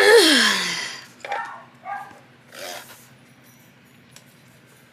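A person sneezing once, loudly: a sudden burst that falls in pitch. A few short, quieter sniffs or breaths follow over the next two seconds.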